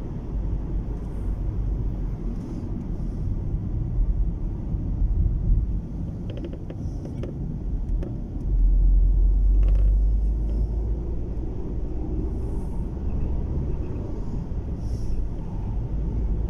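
Low rumble inside a moving car's cabin, from road and wind noise while driving in strong wind. It swells louder for about two seconds around the middle.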